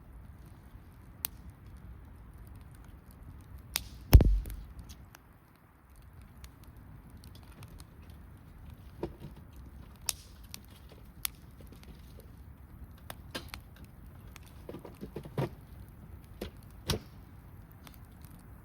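Wood campfire crackling, with scattered sharp pops and snaps of burning wood. About four seconds in comes one much louder thump with a short low rumble.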